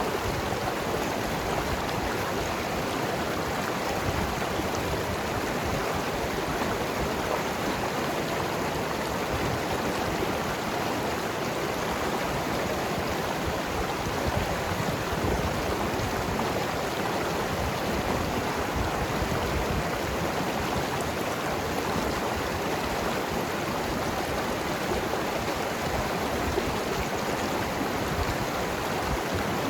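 Mountain river flowing and gurgling over rocks: a steady, even rush of water.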